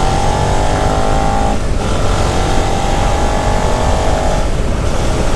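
Suzuki SV650's 645 cc V-twin engine accelerating under load, its pitch rising, with a brief drop for an upshift about two seconds in and another near the end.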